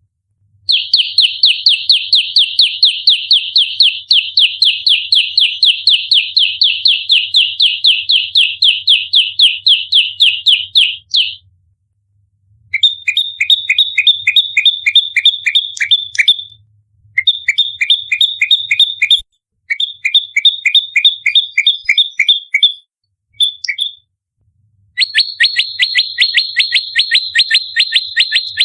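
Prenjak lumut (olive-backed tailorbird) giving its fighting call: fast, even runs of sharp high notes, about five a second, in long bouts broken by short pauses.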